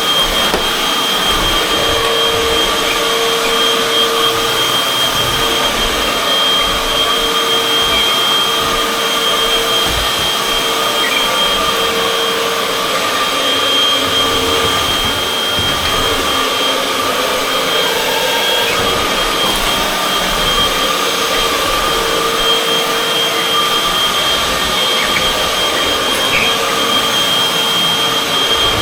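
Vacuum cleaner running steadily, with a constant high-pitched whine and a lower hum that comes and goes.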